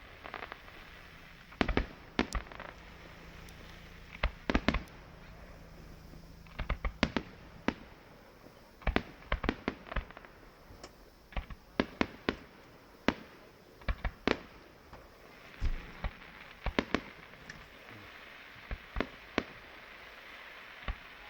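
Fireworks display: a long string of sharp bangs from bursting shells at uneven intervals, many coming in quick clusters of two to four.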